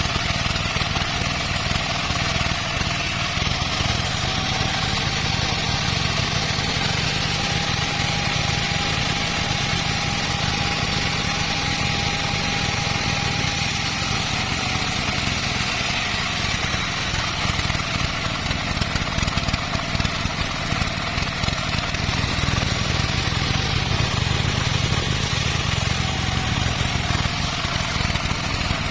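Long-bar two-stroke chainsaw running steadily under load, cutting through teak wood.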